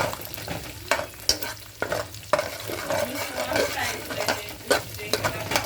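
Egg sizzling as it fries in a hot pan, stirred with a utensil that scrapes and knocks against the pan several times.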